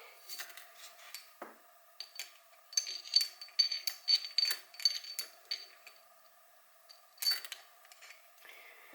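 Light metallic clicks and clinks of small engine parts and tools being handled, a quick run of ringing taps in the middle and a sharper knock near the end, over a faint steady hum.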